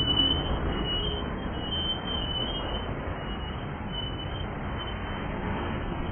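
Freight cars rolling past on steel rails: a steady rolling noise of wheels on track.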